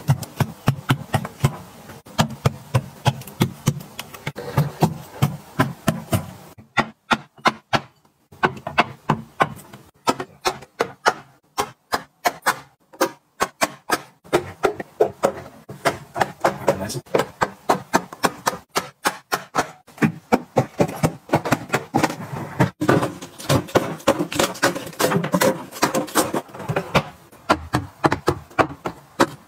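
Hard items clacking and tapping as they are handled and set down one after another, several sharp knocks a second, with short pauses about 7 and 13 seconds in.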